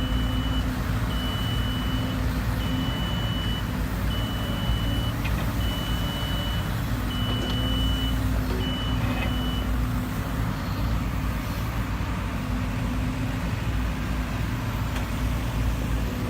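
Heavy diesel earthmoving machinery running steadily, with a reversing alarm beeping at an even pace, one beep about every second and a half. The beeping stops about halfway through while the engine runs on.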